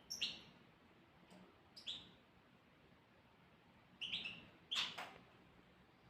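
Small birds giving a few short, high chirps, spaced a second or two apart.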